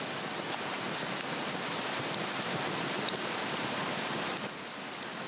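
Swedish torch log fire burning with a steady rushing hiss and a few faint crackles.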